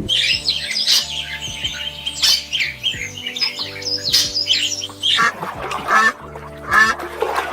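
Birds squawking and chirping in quick, high calls, over background music. About five seconds in, a lower call takes over, repeated roughly once a second.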